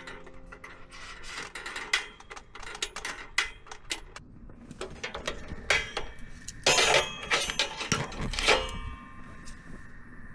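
Irregular clicks, knocks and rubbing of objects being handled, with a louder cluster of clattering about two-thirds of the way in.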